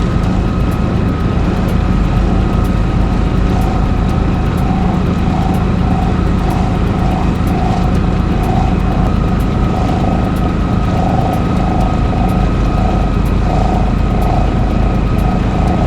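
Sailing yacht's inboard engine running steadily under power, a constant drone with a higher tone pulsing about twice a second.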